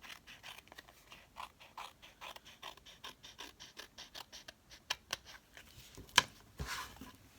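Scissors snipping around the edge of glued paper, a steady run of short cuts about three a second. About six seconds in a single sharp knock, the loudest sound, then a brief rustle of paper.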